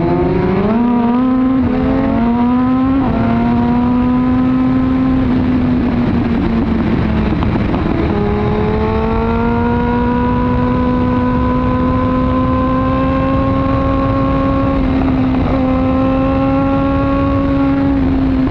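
Suzuki GSX-R1000R inline-four with an Arrow aftermarket exhaust pulling away: revs climb through the first two gears with quick shifts in the first three seconds, then hold nearly steady and creep slowly upward at cruising speed, over constant wind noise.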